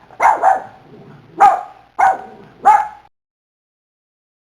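A dog barking: about five short barks, stopping about three seconds in.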